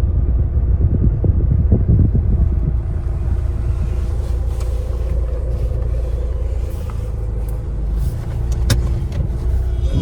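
A car driving, with a steady low rumble of engine and road noise and a single sharp click near the end.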